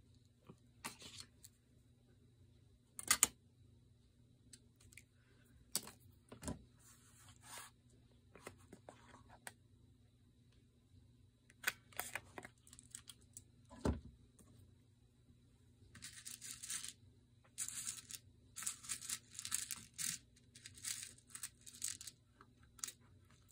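Paper craft pieces being handled with glue-covered fingers: scattered light taps and clicks, then, in the last third, a run of short papery rasps like small tears or sticky fingers peeling off paper.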